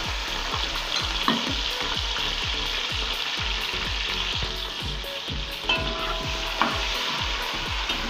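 Chopped onions and leeks sizzling steadily as they fry in hot groundnut oil in an aluminium pot, with a few sharp clinks about a second in and again around six seconds.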